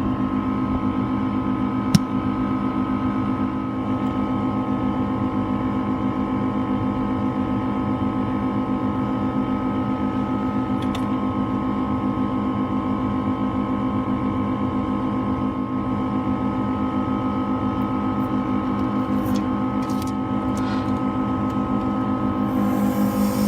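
Steady electric machine hum made of several fixed tones, with one sharp click about two seconds in; the hum changes pitch shortly before the end.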